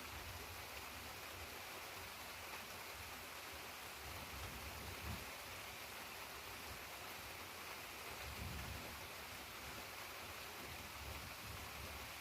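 Steady rain falling, with two short low rumbles, one about five seconds in and one about eight seconds in.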